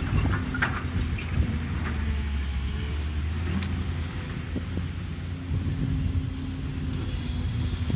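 Caterpillar excavator's diesel engine running steadily, with a few short knocks in the first two seconds and one more midway.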